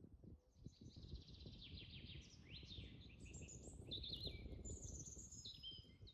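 Small birds chirping and calling faintly: a quick run of short chirps and whistles, some sliding up or down in pitch, busier in the second half, over a faint low rustle.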